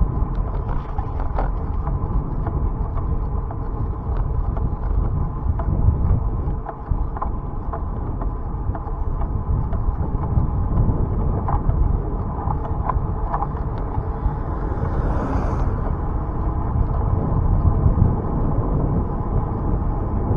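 Wind buffeting the microphone over tyre and road noise from a moving bicycle, with light rattles and clicks throughout and a brief hiss about fifteen seconds in.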